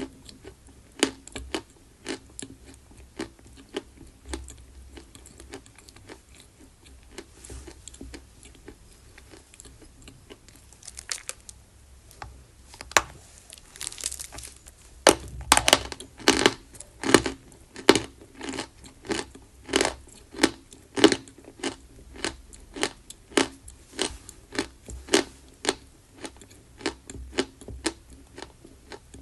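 Close-miked crunching and chewing of pressed edible chalk: sharp, dry crunches about twice a second, growing denser and louder about halfway through.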